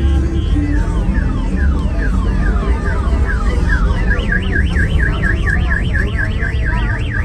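Car alarm sounding through its tone cycle: a run of quick falling sweeps, then a fast up-and-down warble from about four seconds in, over a heavy low background rumble.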